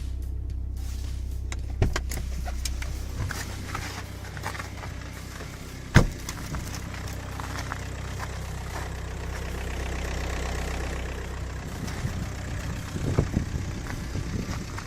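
Audi A4 B6's 1.9 TDI four-cylinder turbodiesel idling steadily after a cold start. A sharp knock comes about two seconds in, a louder one about six seconds in, and a few smaller clicks near the end.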